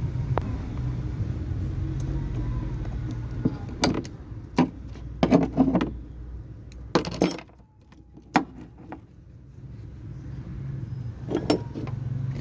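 Hand tools clinking and clattering against metal in a series of short sharp knocks and rattles, over a steady low rumble that fades out briefly in the middle.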